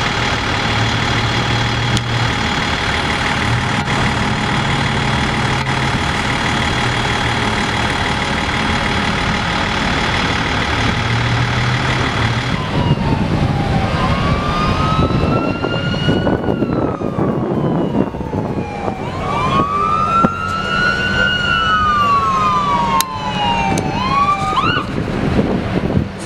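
A large vehicle's engine runs steadily; about halfway through, an ambulance siren starts wailing, rising and falling slowly, and switches briefly to a faster yelp near the end.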